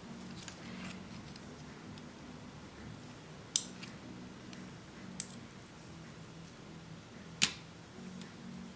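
Three sharp clicks from small repair tools and parts being handled, the last the loudest, over a steady low hum.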